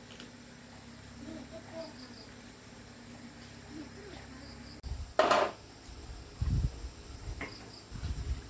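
Workshop handling noise during a motorbike repair: one loud, short, sharp knock about five seconds in, then two low thuds, over a faint steady background.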